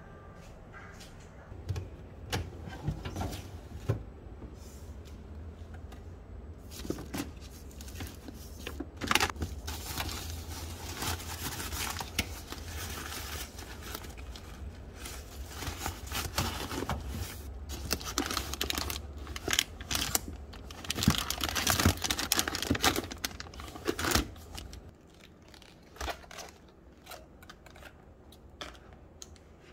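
Plastic bags or wrap crinkling and rustling as vegetables are handled, with scattered light knocks. It is busiest in the middle, over a low hum that stops near the end.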